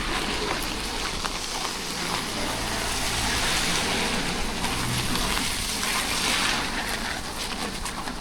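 Steady hiss of rain and wet road under a moving TVS Jupiter 125cc scooter, with wind on the microphone and a faint low hum underneath.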